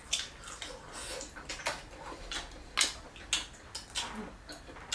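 Close-up eating sounds from a seafood meal: chewing and mouth smacking, with a run of short sharp clicks and cracks at irregular intervals.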